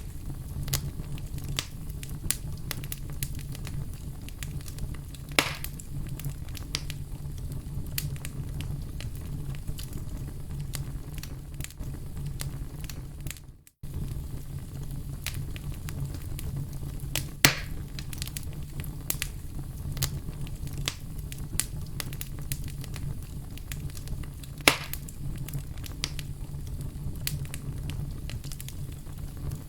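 Wood fire crackling: a steady low rumble with frequent small crackles and three louder pops. The sound briefly fades out and back in about halfway through.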